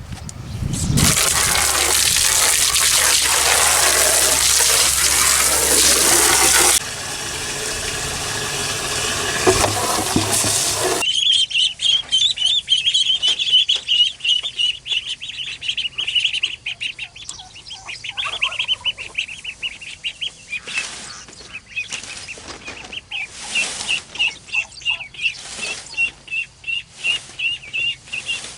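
A loud rushing noise for about the first ten seconds, then, after a sudden change, a flock of chickens calling: a steady high chatter of quick repeated calls.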